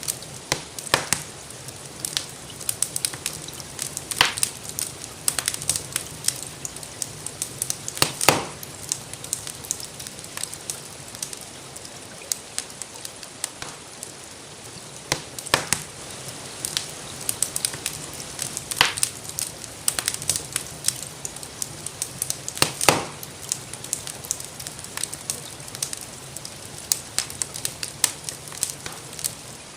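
Wood fire crackling in a fireplace: a constant patter of small pops with a few louder snaps every few seconds, over a steady hiss of rain.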